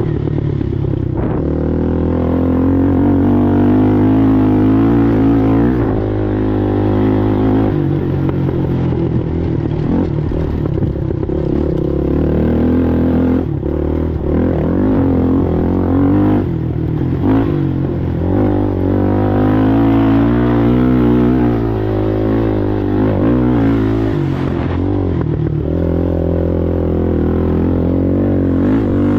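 Racing ATV engine ridden hard, its revs rising and falling continuously through gear changes and throttle, with occasional knocks and clatter from the machine over rough ground.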